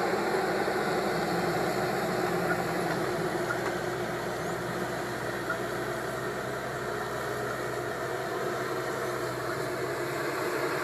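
Caterpillar 320 excavator's diesel engine running steadily.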